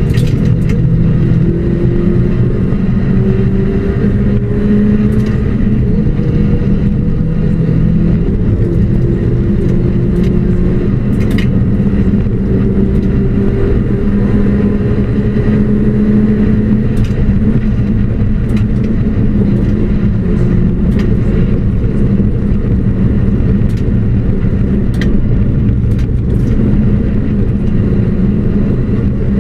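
Ford Puma rally car's engine heard from inside the cabin at speed on a stage, its pitch climbing steadily through each gear and dropping back at the shifts. A few sharp clicks cut through the engine note.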